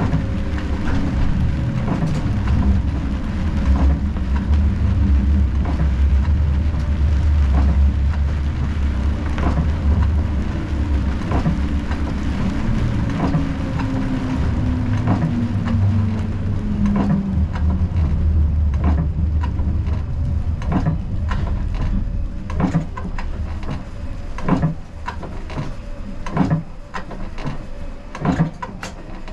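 Siemens Combino tram running on street track: a steady low rumble of wheels and motors, with a motor tone falling in pitch about halfway through as it slows. In the last third it gets quieter and a series of sharp knocks and clicks comes through.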